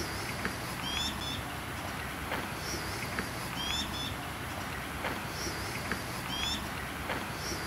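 Outdoor ambience with a small bird giving short, high chirping phrases over and over, about every second or so. Faint clicks come roughly once a second over a steady background hiss.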